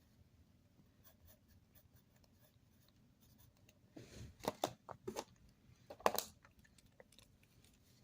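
Faint scratching and handling noises, a few light ticks, then a cluster of scratchy scrapes about four to five seconds in and a louder scrape about six seconds in.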